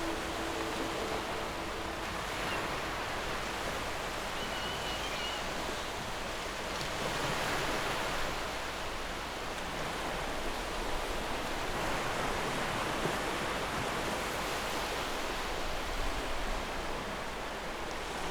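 Sea waves washing steadily against the shore, rising and falling slowly.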